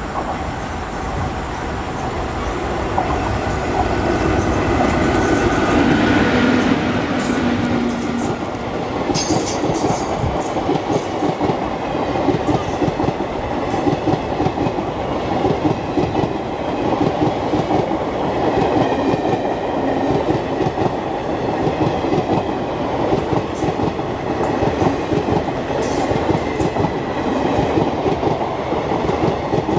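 Express train hauled by an Indian Railways electric locomotive passing close by: it grows louder as the locomotive approaches and goes by about six seconds in, then the coaches' wheels clatter rhythmically over the rail joints.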